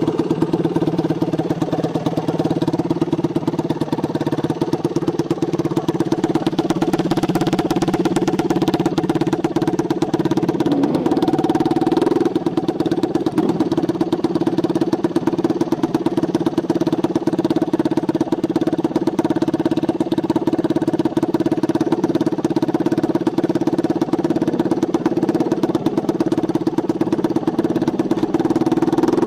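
A dirt bike engine running steadily at idle.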